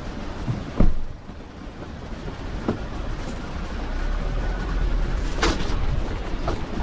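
Vehicle driving on a bush track, a steady low rumble that grows louder partway through, with a few sharp knocks, the loudest about a second in.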